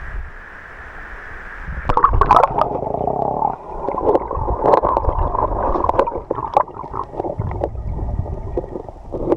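River water gurgling and churning close to the microphone, muffled, with scattered sharp clicks and knocks. It starts suddenly about two seconds in.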